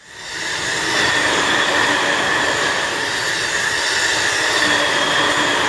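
JR East Joban Line electric commuter train passing at speed: a steady rush of wheels on rails with a high-pitched ring running through it. It comes in abruptly at the start.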